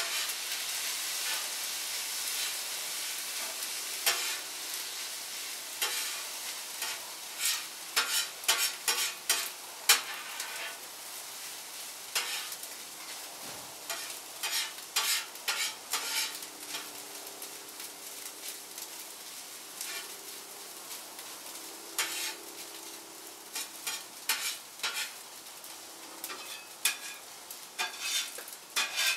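Fried rice sizzling in a hot pan as soy sauce is added, while a spatula stirs it with repeated sharp scrapes and taps against the pan.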